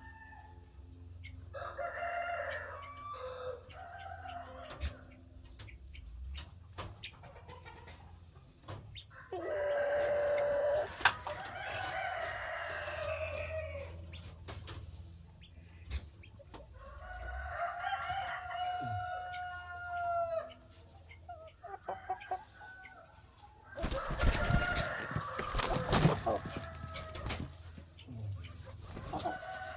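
Roosters crowing several times, the longest crows lasting about three seconds, with hens clucking between them. Near the end a burst of rattling clatter mixes in with the calls.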